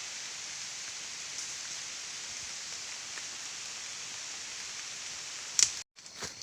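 Steady high hiss of outdoor ambience, broken near the end by a sharp click and a brief cut to silence.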